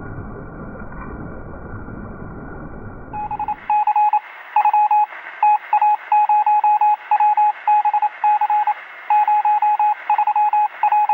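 A steady rushing noise cuts off about three seconds in and gives way to Morse code: beeps at one pitch keyed in short and long pulses, with a thin, radio-like sound.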